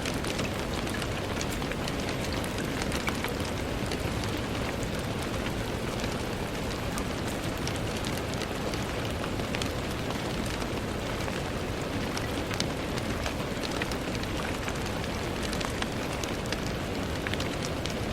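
Steady rain on a window: an even hiss with many small, sharp drop ticks scattered through it.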